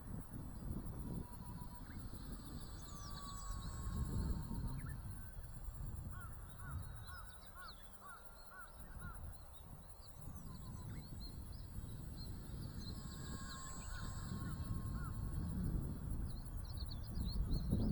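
Gusty wind buffeting the microphone, with the faint whine of a small RC plane's brushless electric motor and propeller passing by, about a second in and again around the middle-to-late part. Short bird chirps come in between.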